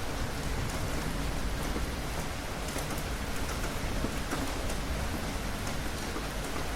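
Steady rain falling, an even wash of noise with scattered single drops ticking through it.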